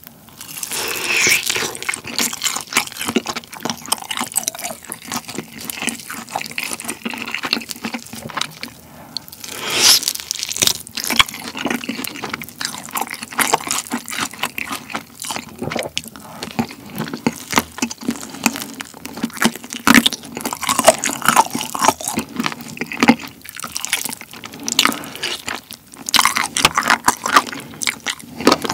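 Close-miked biting, tearing and chewing of yangnyeom-glazed Korean fried chicken drumsticks: crunching coating and wet, sticky sauce and meat sounds, a steady stream of small crunches and smacks with a few louder bites.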